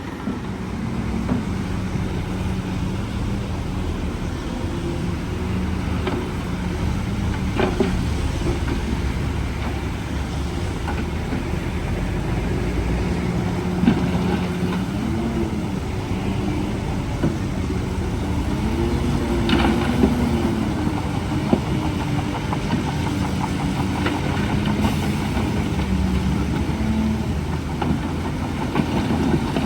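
Heavy diesel engine of a bulldozer running under load, its pitch rising and falling as it works, with a few sharp metallic clanks.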